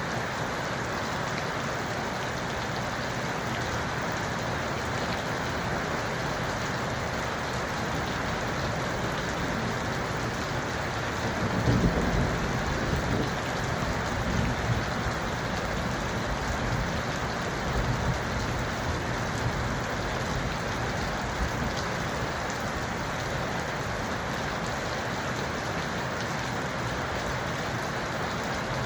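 Steady rain falling, an even hiss of drops. About twelve seconds in a deep roll of thunder swells up and rumbles away over several seconds.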